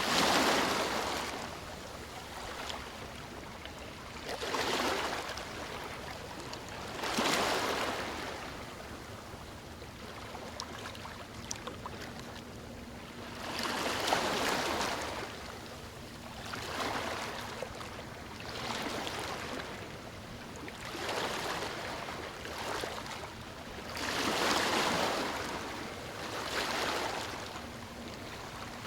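Sea waves breaking and washing up the shore, a surge every two to three seconds, some louder than others, over a steady hiss of surf.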